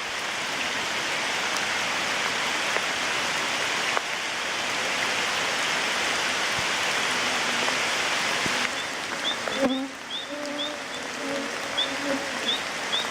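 Rain falling steadily, an even hiss. About ten seconds in it grows a little quieter, and a string of short, high, rising chirps comes through near the end.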